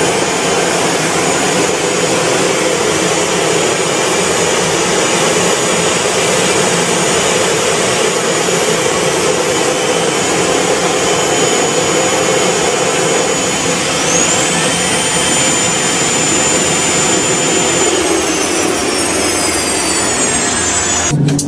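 Jet turbine engine running loudly: a steady rush with a high whine on top. About two-thirds of the way through, a whine tone climbs; over the last few seconds the whine falls in pitch before the sound cuts off suddenly.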